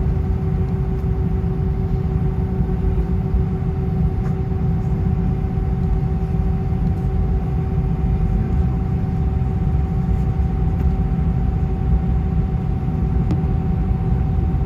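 Steady cabin noise aboard an Airbus A320: a loud low rumble with a constant hum, unchanging throughout.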